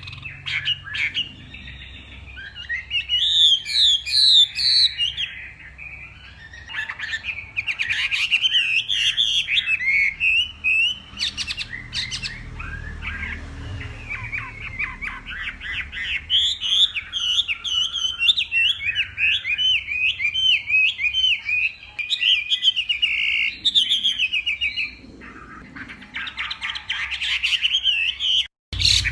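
Chinese hwamei singing a long, varied song of rapid whistled phrases and trills, phrase after phrase with hardly a pause.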